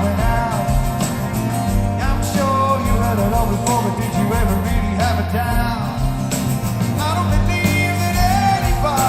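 A live rock band playing a mid-tempo song, with guitar and bass under a man singing the verse.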